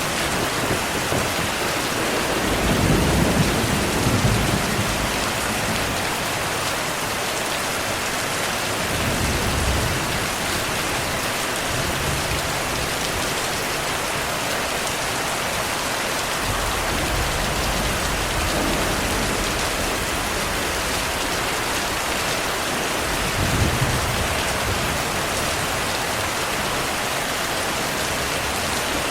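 Steady heavy rain with low rolls of thunder rumbling a few times: the longest about three seconds in, shorter ones around ten seconds in and near the end of the first minute-half.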